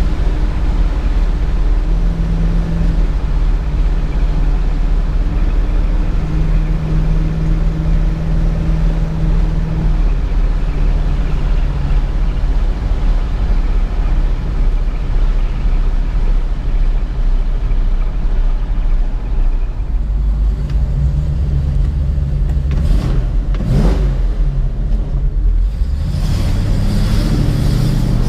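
1967 Ford Mustang's 289 V8 running steadily while driving, with road and wind noise; the engine note steps up and down slightly. Near the end there is a brief swoop down and up in pitch, followed by a hiss.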